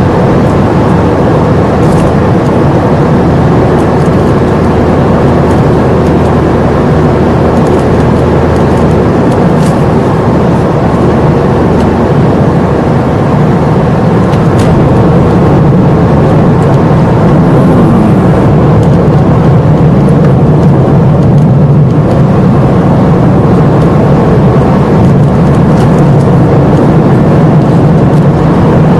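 Car engine and road noise heard while driving, a steady drone that gets a little louder about halfway through.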